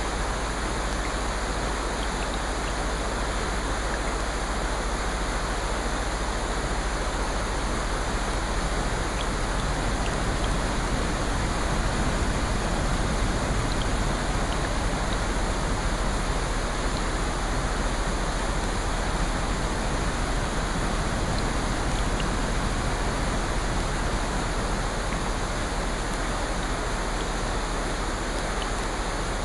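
Steady, unbroken wash of water noise from a relaxation nature-sound track, with a few faint ticks scattered through it.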